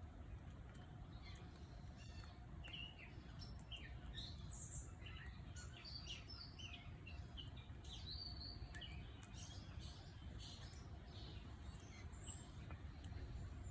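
Birds chirping faintly in many short, quick calls that thin out near the end, over a low steady background rumble.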